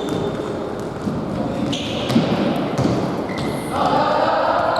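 Futsal being played on a hard indoor court: a ball being kicked and bouncing, short squeaks of shoes on the floor, and players' calls echoing in the hall. A sharp kick about two seconds in is the loudest sound, and voices and court noise grow louder near the end.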